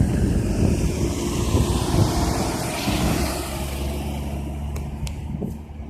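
A motor vehicle passes close by with a loud whoosh that swells and fades about three seconds in, after which a steady low engine hum remains, with a couple of light clicks near the end.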